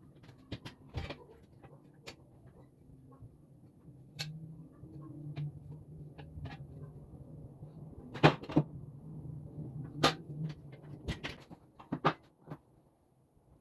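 Scattered knocks and clicks of table parts and tools being handled during assembly, the loudest about 8 and 10 seconds in and a quick run of knocks near the end. A low hum runs under them for a few seconds in the middle.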